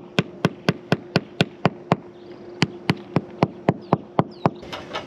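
A hammer tapping teak plugs into screw holes in a teak rubrail: quick light taps about four a second, with a brief pause about two seconds in.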